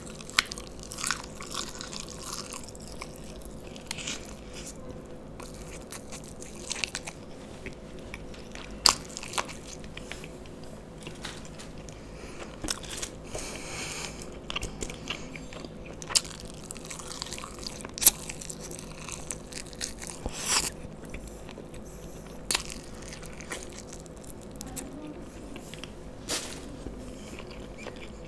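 Chewing and biting into sauce-glazed fried chicken lollipops, with scattered sharp crunches.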